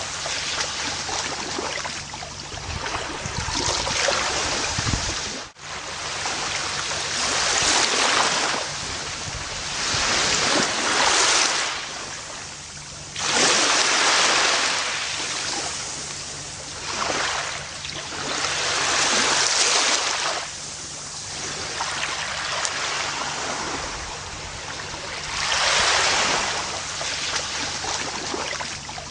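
Gentle ocean surf washing onto a beach, swelling and falling back every few seconds, with a brief sudden drop about five seconds in.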